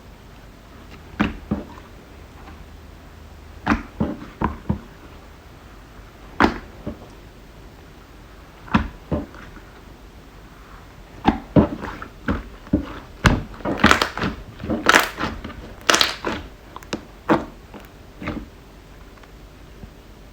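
Slime being handled, making scattered sharp clicks and pops. They come closer together and louder from about eleven seconds in, then thin out near the end.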